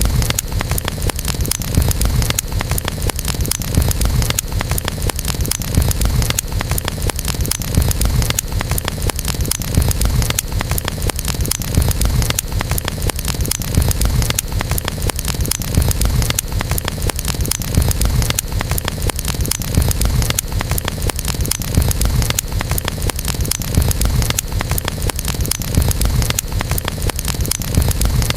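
Wood campfire crackling with many small pops over a continuous low roar, swelling slightly about every two seconds.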